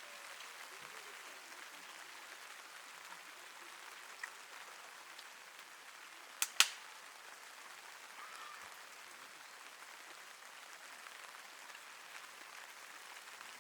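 Steady light rain pattering on a tent, with two sharp clicks close together, the loudest sound, about six and a half seconds in.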